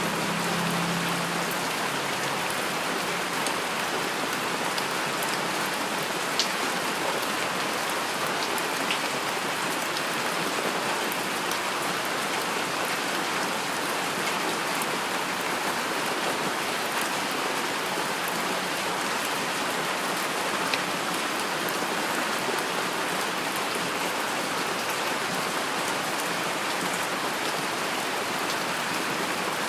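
Steady heavy rainfall, an even hiss of rain on surfaces with scattered sharp ticks of single drops.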